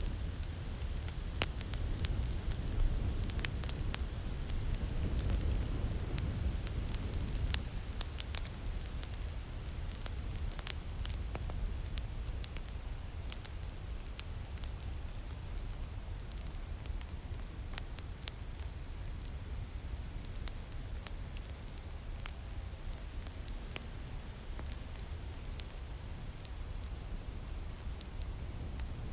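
Wood fire crackling with scattered sharp pops over a low, steady winter-wind rumble; the wind is stronger during the first several seconds, then eases.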